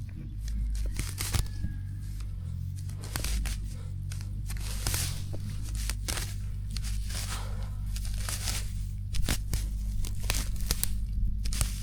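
A tractor engine running steadily in the background, under repeated irregular rustling, crackling and tearing noises from a hay bale being handled and pulled apart.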